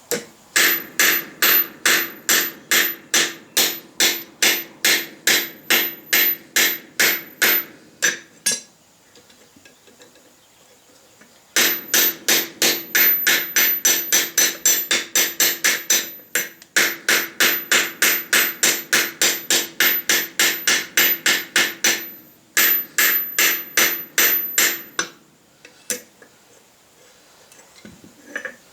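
Blacksmith's hammer striking steel on an anvil in steady runs of about three blows a second, the anvil ringing under each blow. The runs are broken by short pauses, a longer one about a third of the way in.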